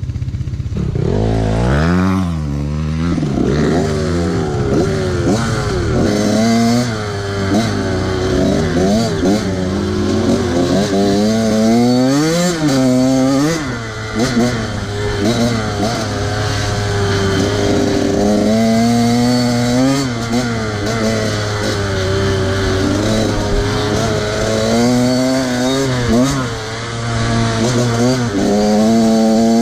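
Small off-road engine being ridden hard, its pitch rising and falling over and over as the throttle is opened and closed, over a steadier low engine hum.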